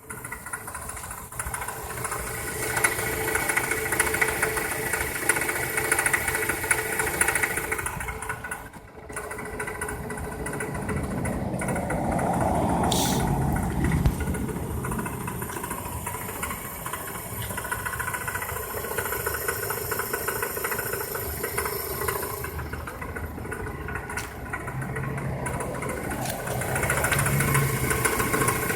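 1999 Toyota Corolla's 1.8-litre four-cylinder engine running with a rattle from the timing chain, the sign of a worn chain or tensioner. Its level rises and falls, dipping briefly about a third of the way in and swelling for a few seconds soon after.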